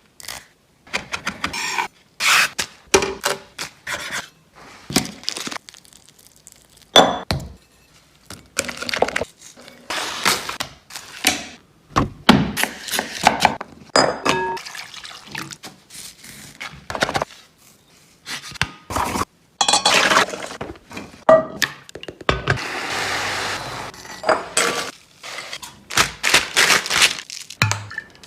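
Kitchen cooking sounds: dishes, pans and utensils clinking and knocking in a string of sharp separate impacts, some with a short glassy ring. A few seconds of steady hiss come in a little past two-thirds of the way through.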